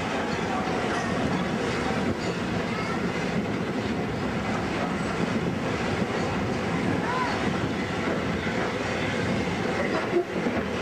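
Steam-hauled heritage train carriage running on the track, a steady rumble of wheels and coach with faint wheel squeals now and then, as the train comes into the station. A short knock sounds near the end.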